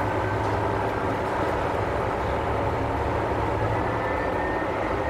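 Tarumi Railway diesel railcar running as it rolls slowly into a station, heard from aboard: a steady low engine drone with a thin whine slowly rising in pitch.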